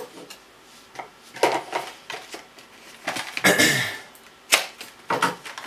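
Trading cards and their cardboard and wrapper packaging being handled: irregular clicks and rustles, the longest and loudest about three and a half seconds in.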